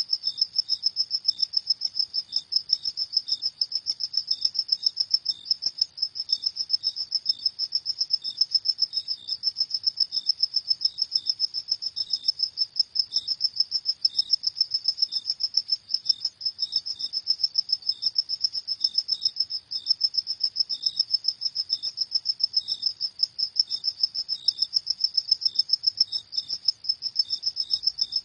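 Crickets chirping at night: a fast, steady run of high-pitched chirps, with a second, fainter and slightly lower chirping at irregular intervals beneath it.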